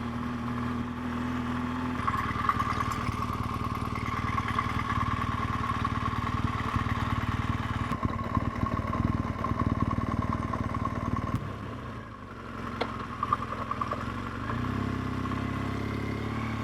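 BMW R1200GS boxer-twin engine running at low speed, dropping quieter about twelve seconds in and picking up again a couple of seconds later.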